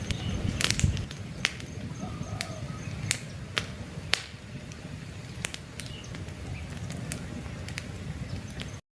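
Campfire crackling: burning wood popping with frequent sharp snaps over a low steady rush of flames, with faint bird chirps behind. The sound cuts off abruptly near the end.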